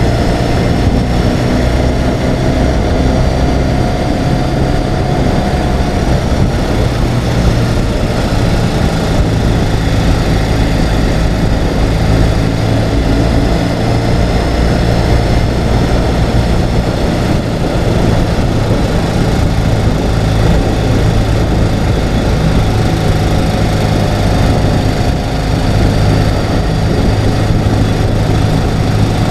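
Ural sidecar motorcycle's air-cooled flat-twin engine running steadily on the move, its pitch drifting gently up and down as engine speed shifts slightly.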